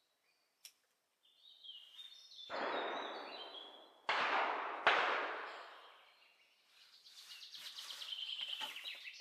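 Songbirds chirping, broken in the middle by two loud rushes of noise: the first builds up, the second starts suddenly and carries a sharp crack, then fades away over about two seconds.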